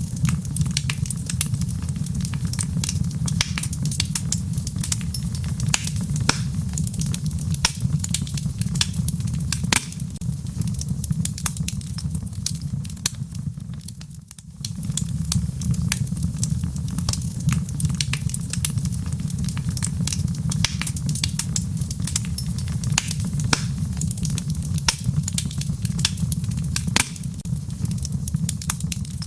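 Wood fire crackling in a fireplace: a steady low rumble of flames with frequent sharp pops and crackles. The sound dips briefly about halfway through, then comes back.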